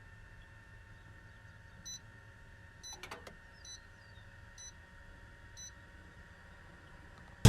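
Microwave oven control panel beeping: five short high electronic beeps about a second apart, with a click near the second beep, over a faint steady hum.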